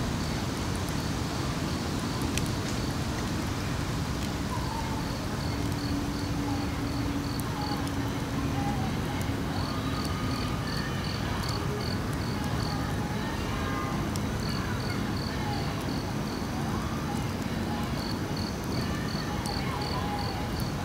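Insect chirping in runs of high, evenly spaced pulses, about four a second, over a steady rushing background noise.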